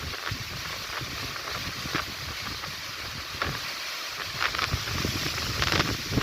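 Strong gale wind gusting, buffeting the microphone with a low rumble under a rushing hiss; the gusts grow louder over the last couple of seconds.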